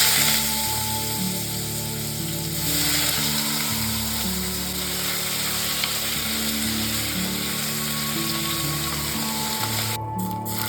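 Food frying in hot oil in a pan, a steady sizzle loudest at the start, with a second surge about three seconds in. It cuts back near the end, over soft background music.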